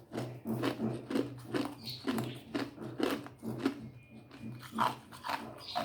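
Ice being crunched between the teeth: a quick series of crisp crunches, about two or three a second, with a short pause about four seconds in. A steady low hum runs underneath.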